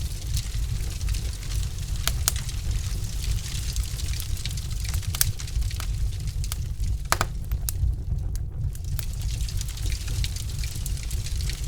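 Logs burning in a fireplace: a steady low rumble of the fire with scattered sharp crackles and pops, one louder pop about seven seconds in.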